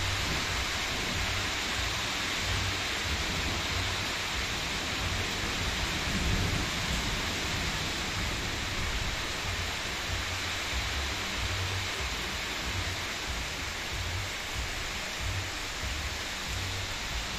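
Heavy rain falling steadily, a constant even hiss of downpour on roofs and standing floodwater.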